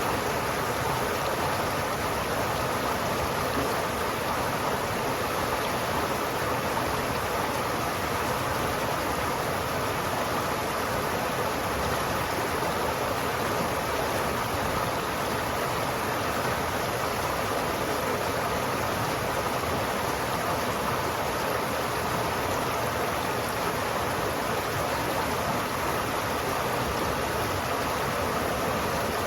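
River water flowing steadily, a continuous even rushing with no breaks or distinct events.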